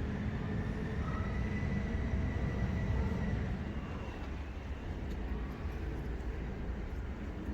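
Steady low rumble of a boat's engine running under way, with a faint high whistle for about a second, two seconds in.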